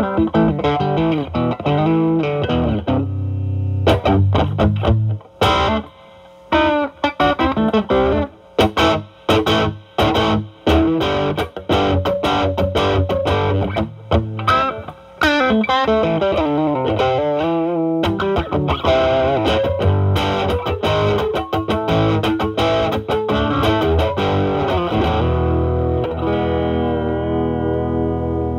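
Electric guitar, a Stratocaster with single-coil pickups, played through a Klon Centaur-style overdrive pedal into a Marshall Valvestate amp's drive channel. The guitar's volume is rolled back to clean up the overdrive, leaving a lightly driven tone. It plays blues-style lead lines, short choppy phrases at first, then longer held notes and chords.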